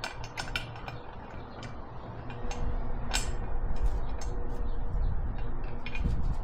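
Scattered clicks and knocks of handling in a workshop, with a low rumble coming in about two and a half seconds in.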